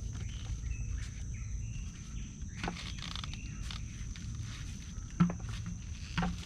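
Outdoor wild ambience: a steady high insect drone with short chirps, over a low rumble. Footstep-like crunches and knocks from someone moving or handling things, the sharpest about five seconds in.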